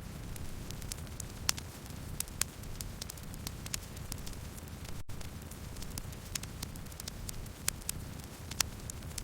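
Campfire burning: a steady low rumble with irregular sharp crackles and pops, several a second at times. A split-second cut-out about halfway through.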